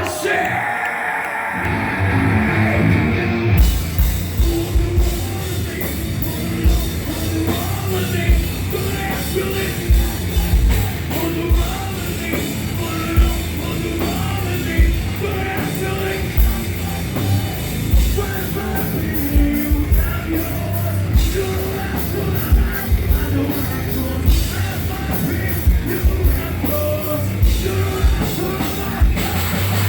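Live heavy rock band playing loud. A sustained high guitar tone opens, bass and guitars come in with the kick drum about a second and a half in, and the full drum kit with crashing cymbals joins a couple of seconds later, then drives a steady, hard-hitting beat.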